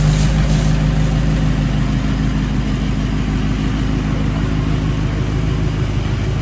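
Car engine running steadily at low revs, a deep, even hum.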